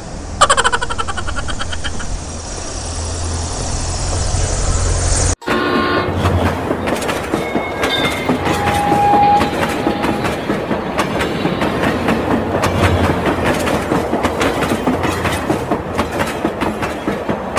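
A loud, short horn blast over a steady low hum, falling in pitch. After an abrupt cut about five seconds in, a railway train runs with a dense, rapid clickety-clack of wheels over rail joints and a brief whistle-like tone.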